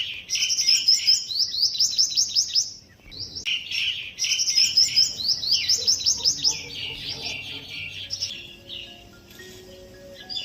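A songbird singing rapid runs of quick, high, falling chirps in two long bouts with a short break about three seconds in, fading out past the middle. Faint music enters near the end.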